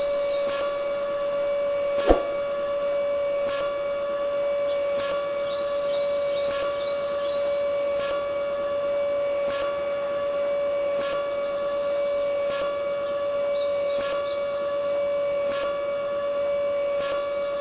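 Small electric toy motor running with a steady high whine, with a faint tick about every second and a half and a sharper click about two seconds in.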